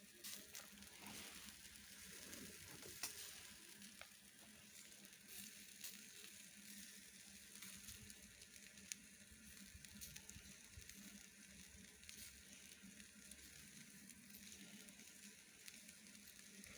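Shashlik skewers sizzling on the grill: a faint steady hiss with scattered small pops and crackles.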